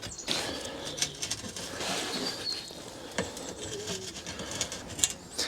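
Faint outdoor background of scattered light clicks and tapping, with a few short, faint bird chirps.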